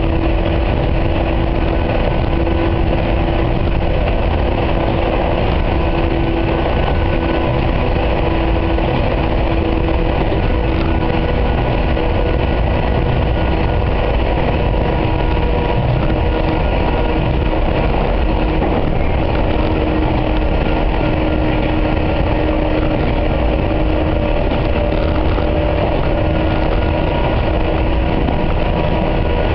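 Ex-Seibu 701 series electric train heard from inside its motor car while running at a steady speed: a constant rumble of wheels on rail under a steady hum of the traction motors and gearing, with a few held tones.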